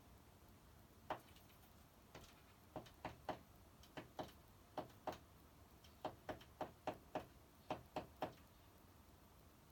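A small bird pecking at window glass with its beak: quick, sharp taps in irregular bursts of two to four, about eighteen in all, with a pause near the end.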